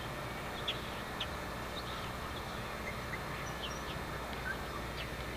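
Small birds chirping: short, scattered high chirps over steady outdoor background noise and a low hum.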